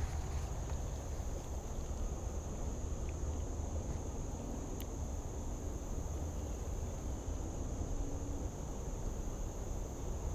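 Insects singing in a steady, unbroken high-pitched chorus over a constant low rumble.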